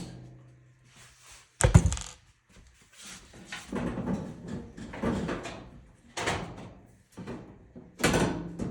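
Knocks and clanks of a dryer's sheet-metal cabinet being handled as it is unscrewed and taken apart, with one sharp, loud clank just under two seconds in, a run of lighter knocks and scrapes, and another loud knock near the end.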